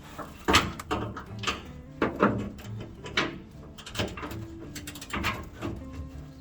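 Irregular clanks and knocks, about one or two a second, of hand tools and metal parts being handled while working under a pickup truck.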